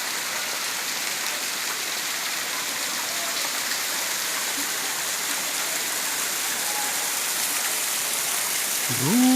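Steady rushing and spattering of falling water from a waterfall. Near the end a person's voice starts a drawn-out, rising "ooh".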